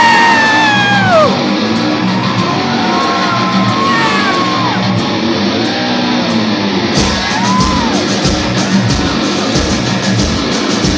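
Live heavy metal band in a hall: a loud held note falls away about a second in, the guitars carry on more quietly, and fast, heavy drumming comes in about seven seconds in.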